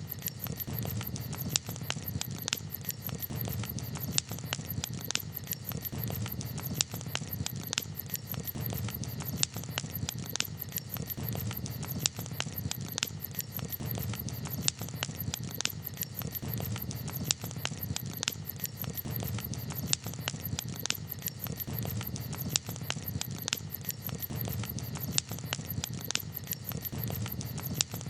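Campfire crackling: frequent sharp pops and snaps, several a second, over a steady low rumble.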